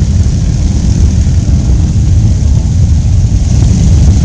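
Wind buffeting the microphone over the steady rumble of a motorcycle riding along.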